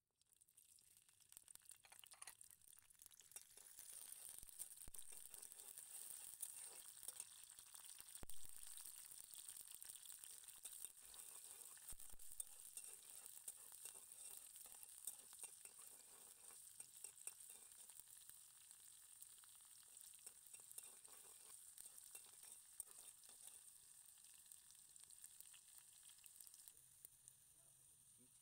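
Garlic cloves and dried red chillies sizzling and crackling in a little hot oil in a karahi as they are stirred with a spatula. The faint sizzle builds over the first few seconds, with one louder clack about eight seconds in, and eases off near the end.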